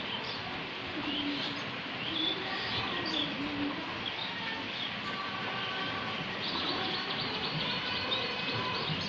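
Small birds chirping in short, scattered high calls over a steady background hiss.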